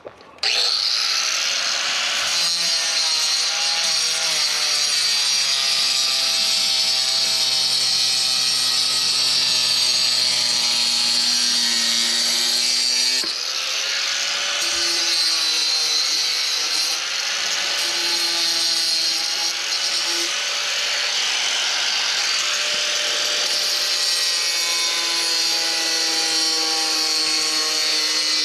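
Power saw with a diamond blade cutting concrete. It starts suddenly and runs continuously, its motor pitch sagging and recovering as the blade bites, and it eases briefly about halfway through.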